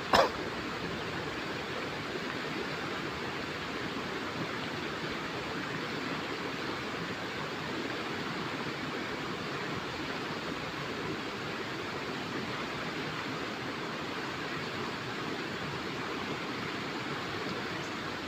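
Steady rushing of river water flowing over the streambed. A brief sharp noise sounds right at the start.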